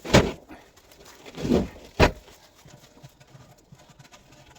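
Three knocks of a tool against the rusty fuel tank of a 1913 Richard Hornsby portable engine, working to free up rust caked at its bottom. The last knock, about two seconds in, is the sharpest.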